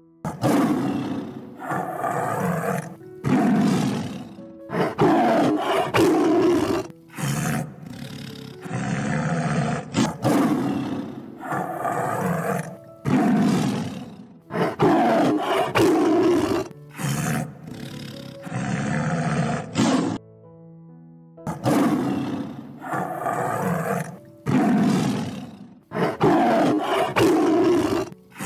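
Tiger roaring and snarling again and again, about one roar every second or so with a short pause about two-thirds of the way through, over soft background music.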